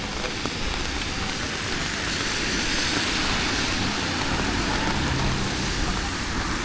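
Street traffic on a rain-wet road: a vehicle passes with a tyre hiss that swells from about two seconds in, and a low engine hum shows in the second half.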